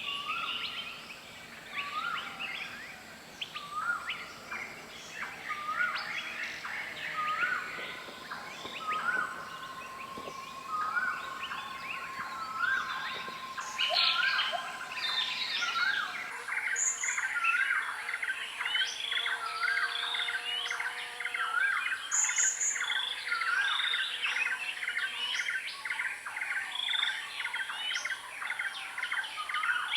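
Several birds calling and singing at once, a dense chorus of chirps and whistles. One bird repeats a short rising note about once a second through the first half. The mix of calls and background changes abruptly about halfway.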